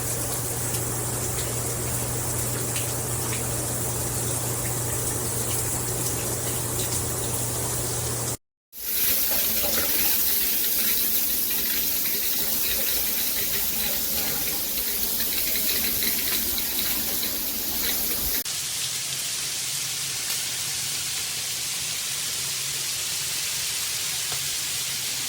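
Water running through a split handheld filtered shower head, a steady spraying rush; the head leaks. The rush drops out for a moment about a third of the way in and changes tone about two-thirds through.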